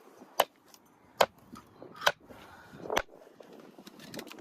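A knife chopping raw chicken on a cutting board: four heavy chops less than a second apart, then a few lighter taps near the end.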